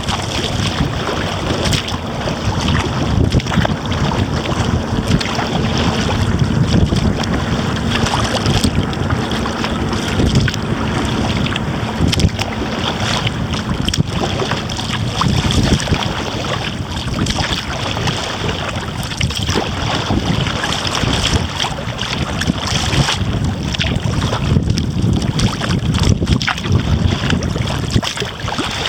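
Strong wind buffeting the camera microphone through its furry windscreen, a steady low rumble, mixed with splashing water around a kayak.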